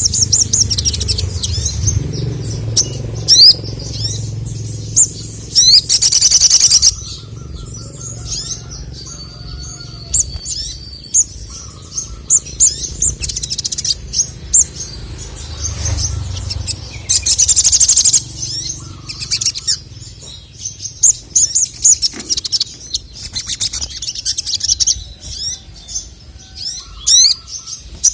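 Male sogon (sogok ontong) singing in fast, high chirps and sweeping notes, broken twice by longer dense rattling phrases, about six and seventeen seconds in.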